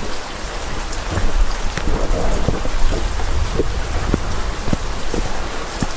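Rain falling steadily, with low thunder rumbling underneath.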